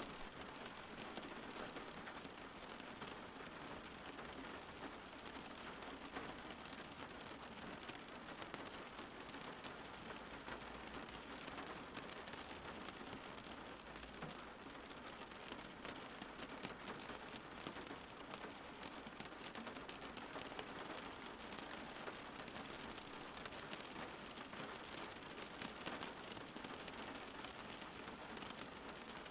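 Steady rain falling and pattering on surfaces, a dense even hiss of many small drops.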